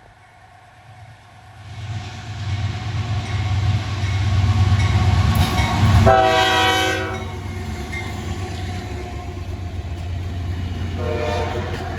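Diesel locomotive approaching and passing, its engine rumbling, sounding its multi-chime air horn: one blast of about a second midway, and another starting near the end.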